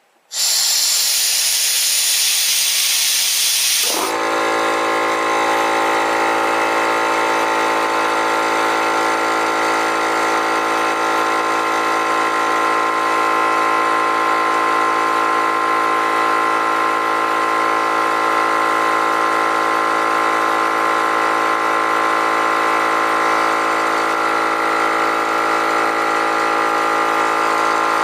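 Compressed air hissing out of the tank for about three and a half seconds, then the Harbor Freight air compressor's motor and pump start and run steadily, refilling the tank after the pressure drops to the switch's cut-in point.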